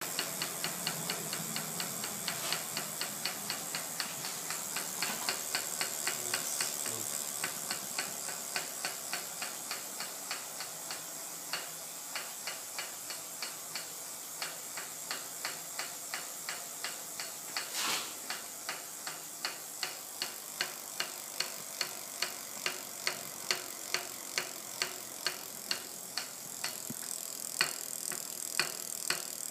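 Bicycle making a regular clicking noise, about two to three clicks a second, slowing and then quickening again, over a steady hiss; one louder knock comes about two-thirds of the way through. A strange, unexplained noise from the bike.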